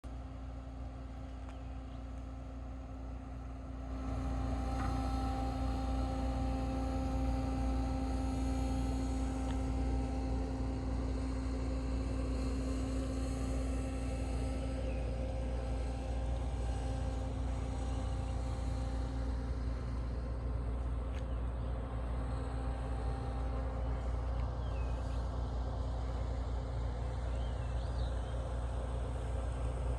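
A ferry's engine running at a steady pitch, a continuous low hum with a droning tone, stepping up in loudness about four seconds in.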